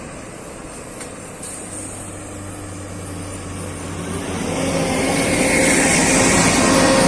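Heavy truck engine running under load, growing louder from about four seconds in as it comes closer.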